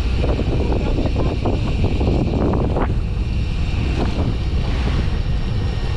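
Wind buffeting the microphone over the steady low rumble of a fishing boat at sea.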